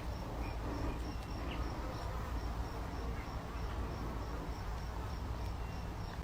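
Cricket chirping: a regular series of short, faint high chirps, about three a second, over a low background hum.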